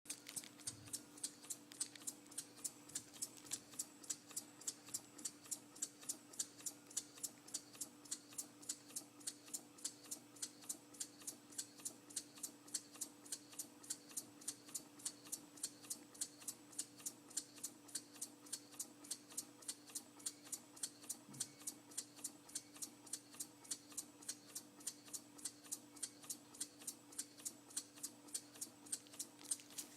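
Model wooden beam engine running at a steady speed, giving an even, rapid clicking at about three beats a second.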